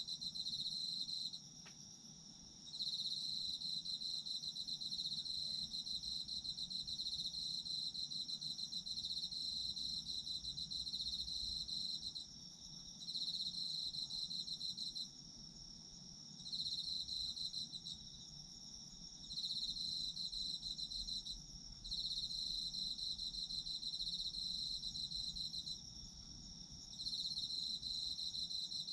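Autumn crickets singing: one keeps up a steady high trill while another chirps in pulsed bouts of one to three seconds, broken by short pauses.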